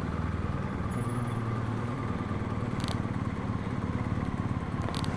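BMW R1250GS boxer-twin engine idling steadily, heard through a helmet microphone, with a faint click about three seconds in.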